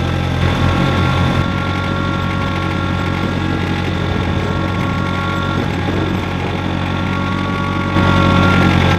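A John Deere compact diesel tractor engine running steadily under way, getting louder for the last second or so.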